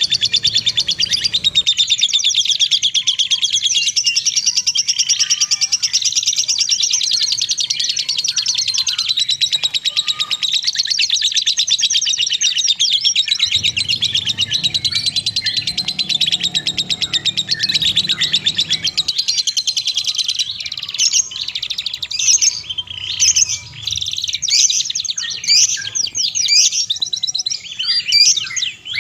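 Small songbirds singing a rapid, continuous high-pitched trill of chirps, which breaks into separate, more spaced chirps after about twenty seconds.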